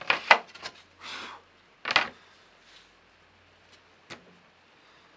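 Wooden guitar-top boards being handled: a quick cluster of clacks, a short brushing scrape, then a louder clack about two seconds in and a single light tick near four seconds.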